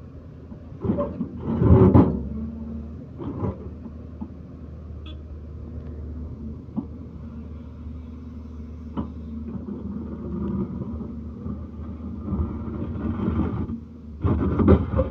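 Diesel engine of a heavy machine running steadily at a low, even speed, with a few louder bursts about a second in and again near the end.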